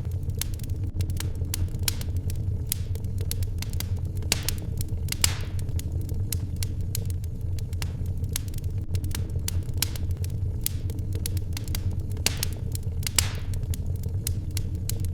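Fireplace crackling: many small sharp pops and snaps over a steady low rumble. Two longer rustling sweeps come about four seconds in and again about twelve seconds in.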